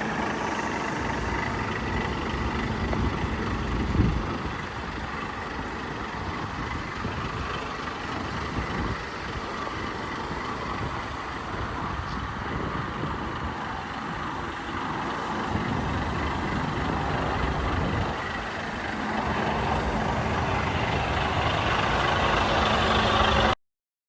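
Volvo FH 500 truck's 13-litre six-cylinder diesel engine idling steadily, with a short thump about four seconds in. It grows louder for the last few seconds and cuts off abruptly.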